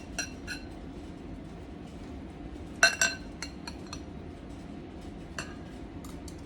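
Kitchen utensil clinking against dishes: several short, ringing clinks, the loudest a cluster about three seconds in, with more scattered through the rest.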